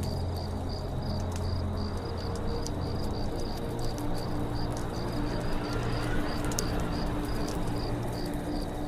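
Campfire crackling with scattered sharp pops, a cricket chirping steadily at about three chirps a second, over a low steady rumble.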